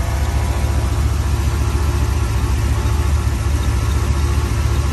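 Truck's V8 engine idling steadily, with an electric radiator fan running.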